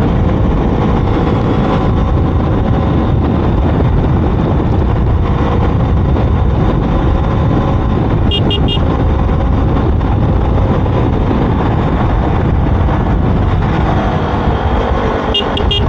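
Steady rush of wind and engine noise from riding a KTM RC 200, a single-cylinder motorcycle, in traffic. A vehicle horn toots briefly about eight seconds in and again near the end.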